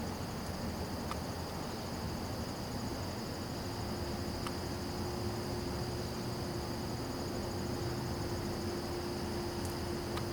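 Insects trilling steadily at a high pitch over a low, even background rumble. A faint steady hum comes in about three and a half seconds in.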